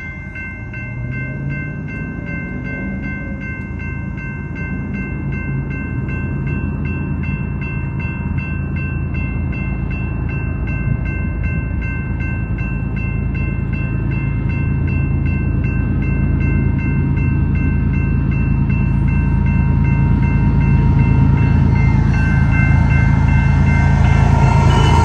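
Diesel freight locomotives, led by a GE ES44AC, approaching with their engine rumble growing steadily louder over a grade-crossing signal bell ringing in a steady, rapid rhythm. Near the end the lead locomotive's horn sounds.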